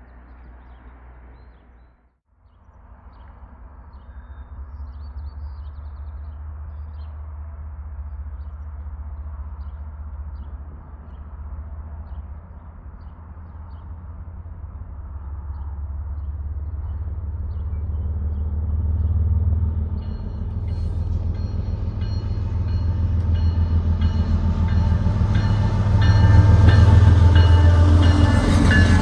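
Diesel locomotives leading an empty CPKC coal train, approaching with a steady low engine rumble that grows louder throughout. Higher ringing tones join in from about twenty seconds in. There is a brief break about two seconds in.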